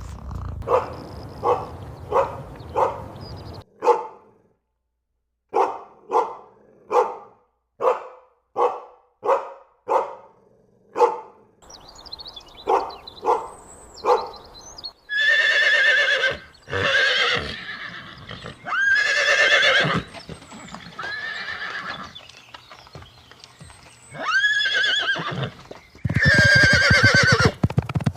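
Horse sounds: a run of evenly spaced hoof clops, about one every half second or so. From about halfway come several loud, high, quavering whinnies, with a loud burst near the end.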